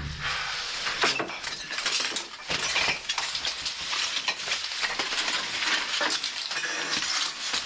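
Rattling, clinking clatter with scrapes and knocks of rubble and debris being moved and stepped on.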